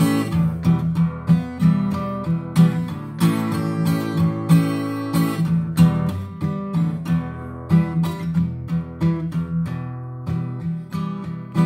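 Acoustic guitar strumming chords in a song's instrumental break, several strokes a second, with no singing.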